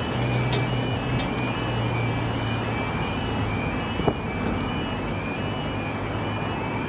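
Level crossing warning alarms sounding a repeating two-tone yodel, over the low steady drone of an idling engine. A single brief knock about four seconds in.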